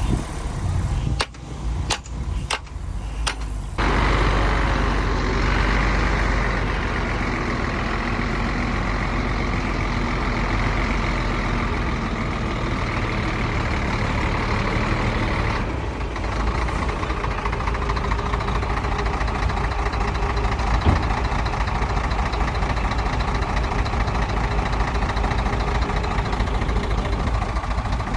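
Heavy diesel earthmoving machinery running steadily at a landfill tip. The first few seconds are broken by several abrupt cuts and drop-outs before the engine noise settles into a constant drone.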